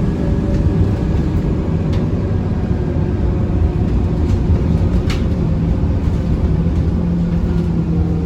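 A Scania K230UB city bus's five-cylinder diesel engine running as the bus drives along, heard inside the passenger cabin with steady road rumble. A couple of sharp rattles come about two and five seconds in.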